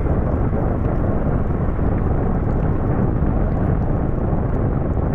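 Steady low wind rumble on the microphone while riding through heavy rain, with faint scattered ticks of raindrops.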